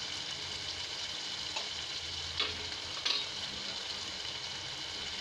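Mawa (khoya) with sugar frying in a pan: a steady sizzle, with a few light clicks.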